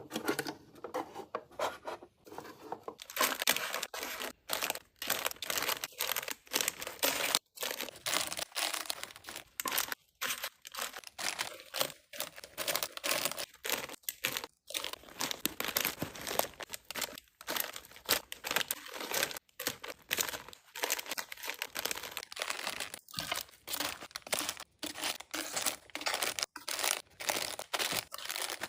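Plastic food packaging crinkling and rustling as it is handled and opened, in quick irregular crackles with many short pauses.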